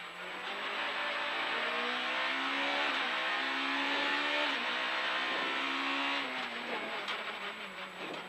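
Suzuki rally car's engine heard from inside the cabin under hard acceleration: the revs climb and drop back at gear changes, then fall away about six seconds in as the car lifts off.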